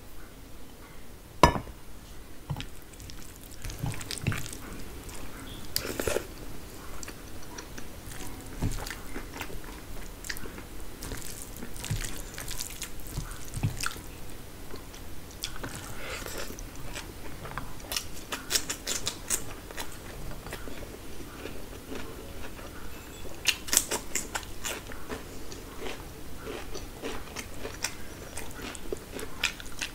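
Close-miked eating by hand: fingers working rice, gravy and mutton, and chewing with many short wet clicks and smacks. A single sharp knock about a second and a half in is the loudest sound.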